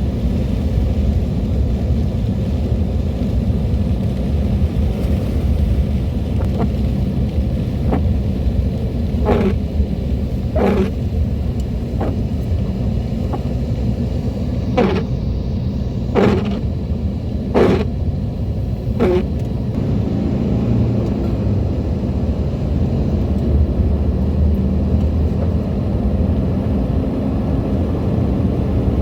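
Steady low rumble of a vehicle on the move. Midway through, six short swishing strokes come about a second and a half apart.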